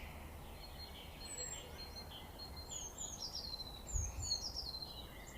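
Faint birdsong from distant birds: short, high, downward-sliding whistles every second or so over a low background rumble, with a brief low thump about four seconds in.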